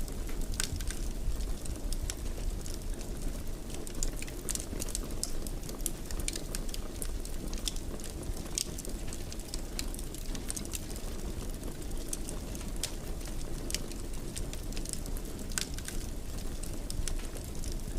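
Fire crackling in a fireplace: a steady low rumble of flames with frequent sharp pops and crackles scattered throughout.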